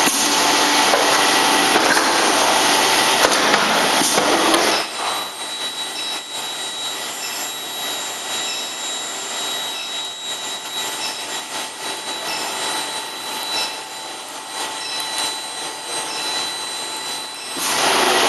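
Industrial induction heating machine running with its feeder. A loud hissing noise lasts for about five seconds, then gives way to a quieter steady high whine with faint ticks about once a second, and the loud noise returns near the end.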